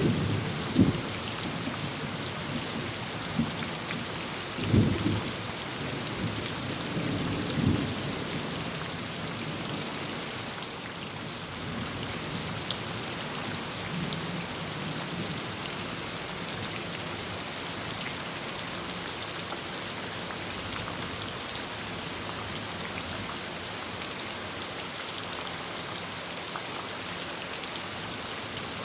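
Heavy rain falling on a tin roof as a steady hiss, with a few low rumbles of thunder in the first eight seconds or so, then rain alone.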